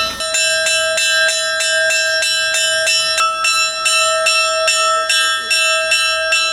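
Church bells ringing a fast, even peal of about three strikes a second, with bells of different pitch sounding in turn and each strike ringing on into the next.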